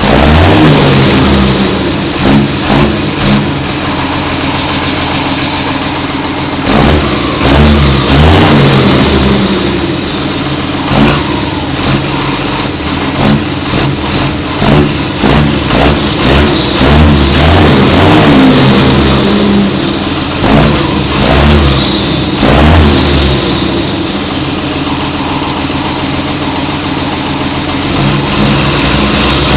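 John Deere 6630 Premium tractor's six-cylinder diesel engine running and being revved, with repeated short throttle blips, several in quick succession near the middle, and a high whistle that rises and falls with the revs.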